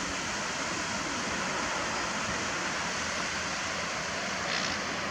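Steady rush of sea waves breaking on the shore, with a brief brighter hiss near the end.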